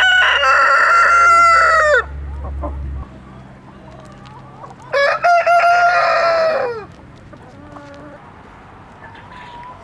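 Rooster crowing twice, each crow a long call of about two seconds: one at the start and another about five seconds in.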